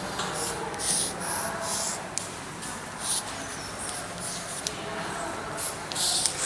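Handwriting: a pen or marker making a run of short, scratchy strokes with a few sharp taps, as equations are written out.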